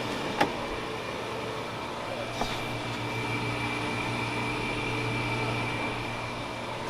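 Steady mechanical hum with a faint high whine over it, and a couple of light knocks about half a second and two and a half seconds in.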